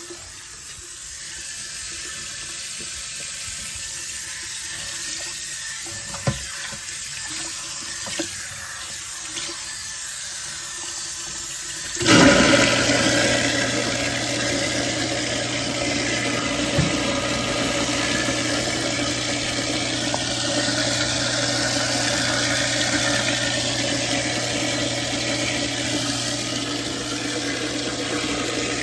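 Cold water running into a kitchen sink. About twelve seconds in, a garbage disposal switches on with a sudden loud burst, then runs steadily with a low hum under the rush of water.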